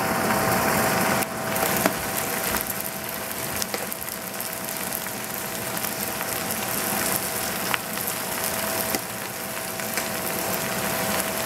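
Vegetables sizzling in a stainless steel pot on the stove: a steady frying hiss, with a few brief clicks.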